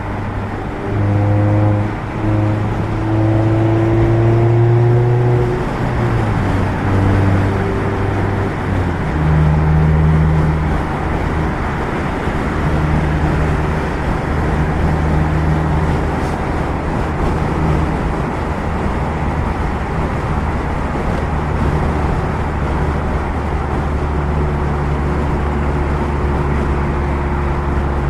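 2016 Mazda MX-5 Miata's four-cylinder engine breathing through a Goodwin Racing RoadsterSport race exhaust, heard from the driver's seat. It pulls up through the revs twice with a gear change between, then settles into a steady, low cruising note.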